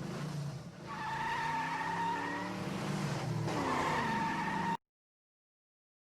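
A car's tyres squealing in two long stretches over a changing engine note, cutting off abruptly, followed by a second and a half of silence.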